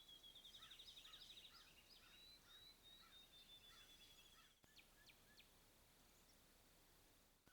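Faint wild birdsong: a fast high trill over a series of short repeated lower calls. These break off partway through, and a few sharp, high chirps follow.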